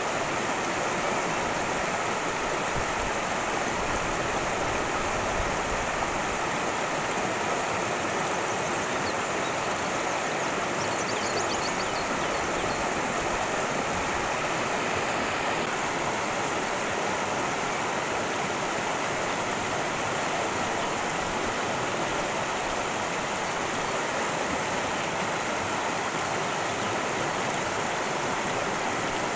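Cascading stream, water rushing steadily with an even, unbroken sound.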